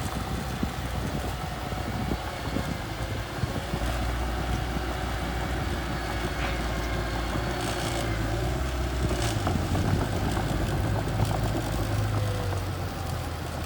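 Small bulldozer's diesel engine running under load, its note shifting up and down a few times as it works the ground.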